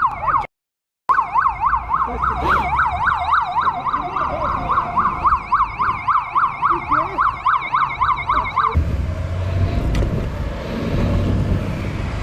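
Police siren in a fast yelp, its pitch sweeping up and down about four times a second, cut briefly by a dropout under a second in, and stopping abruptly about nine seconds in. After that comes a low rumble of vehicle and road noise.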